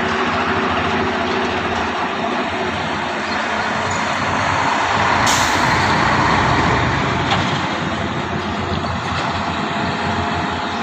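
Truck engine running with heavy road noise, its low engine tone fading after the first few seconds. A brief sharp hiss comes about halfway through.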